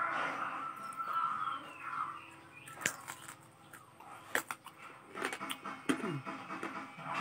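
Eating sounds of fried frog being chewed, with a handful of sharp, separate crunches spread through.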